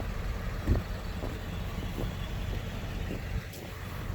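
Steady rushing rumble of a large waterfall, with one brief thump about a second in.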